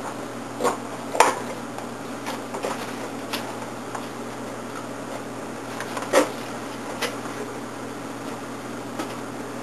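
Scattered metal clinks and knocks, about eight in all with the loudest about a second in and about six seconds in, as jump-starting gear is handled and hooked up, over a steady low hum.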